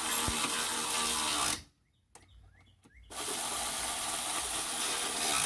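A power tool runs in two hissing bursts of about two and a half seconds each, with a gap of about a second and a half between them, as the bolts on the running-board brackets are run tight.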